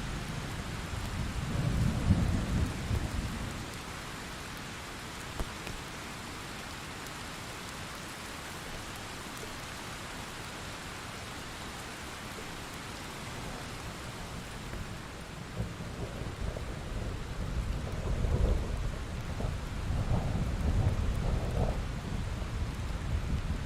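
Thunderstorm sound effect: steady rain with low rolling thunder, one rumble about two seconds in and a longer run of rumbling through the second half.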